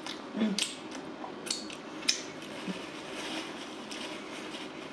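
A few sharp clicks and taps with light rustling in between, from food, packaging and utensils being handled close to the microphone.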